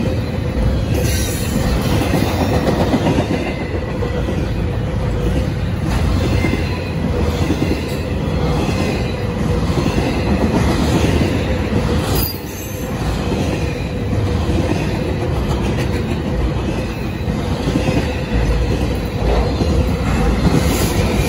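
Double-stack intermodal freight train rolling past at speed: a steady loud rumble and rattle of well cars and wheels on rail, with a steady whine over it. Near the end a deeper rumble comes in as the rear diesel locomotives approach.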